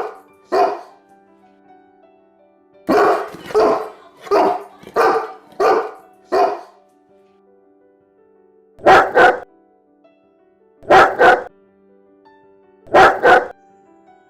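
Saint Bernard dog barking: one bark, then a run of six barks about two-thirds of a second apart, then three quick double barks about two seconds apart. Faint background music with held notes sounds between the barks.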